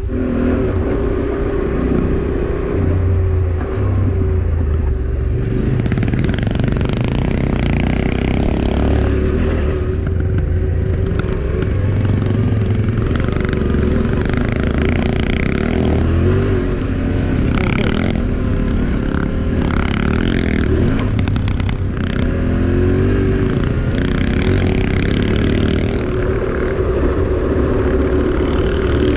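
Motorcycle being ridden, its engine running steadily, with irregular rushes of road and wind noise over it.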